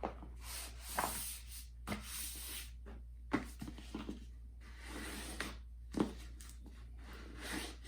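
Sheet of poster board being handled and folded, its surface rubbed along the fold with repeated scraping swishes and a few sharp taps.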